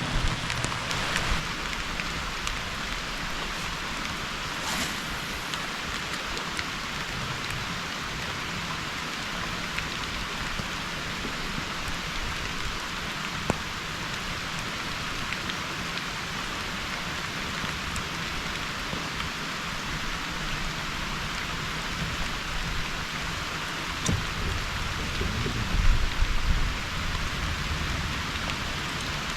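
Heavy rain pouring down steadily, an even hiss of drops hitting the surface all around. A few low knocks come near the end.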